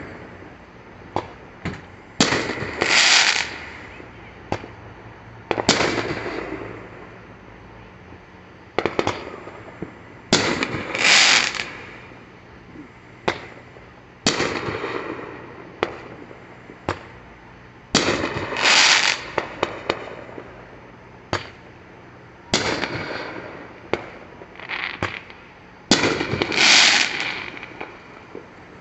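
Aerial fireworks going off one after another, roughly every four seconds: each is a sharp bang followed by a crackling burst lasting about a second, with single pops in between.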